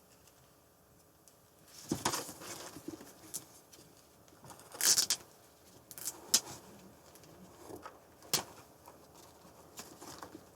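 Rustling and light clicks of packaging and printed items being handled with gloved hands while unpacking, in short separate bursts, the loudest about five seconds in.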